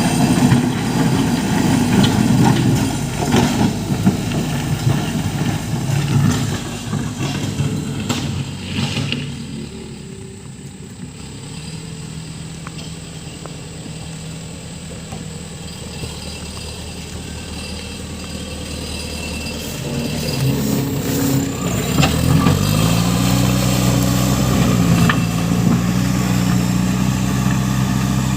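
JCB 3CX backhoe loader's diesel engine working, then dropping to a lower, quieter speed after about eight seconds. Near the end it revs up again and holds a higher steady speed.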